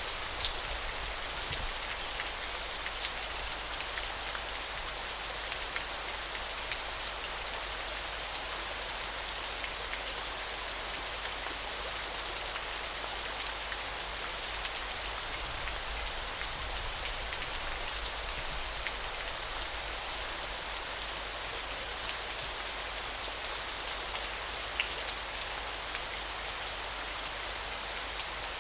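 Steady rushing of flowing water, an even hiss. A high, thin trill sounds in repeated bursts of a second or two until about two-thirds of the way through.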